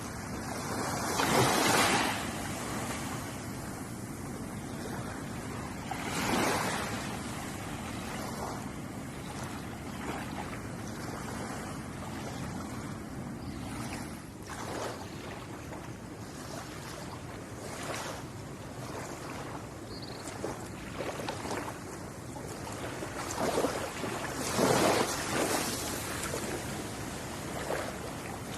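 Ocean waves breaking and washing onto a shore over a steady surf hiss, with a louder surge about a second in, another around six seconds, and a bigger cluster of breaks near the end.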